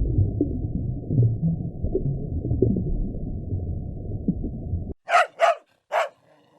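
A low, muffled rumble for about five seconds, which cuts off suddenly. Then a dog barks four times in quick, short barks.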